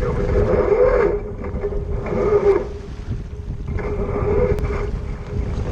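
Wind buffeting the microphone aboard a sailboat under way, with water rushing along the hull in surges about every two seconds.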